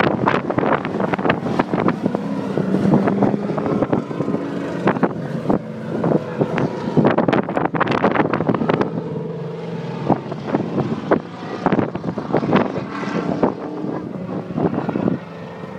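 Stock-car engines running as the cars lap a circle track, with irregular buffets of wind on the microphone.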